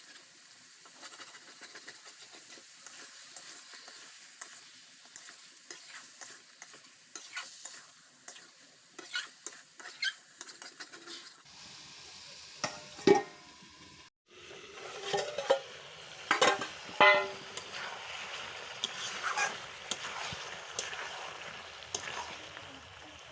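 A utensil stirring and scraping in a cooking pot, with light sizzling and scattered clinks, and a few louder knocks against the pot.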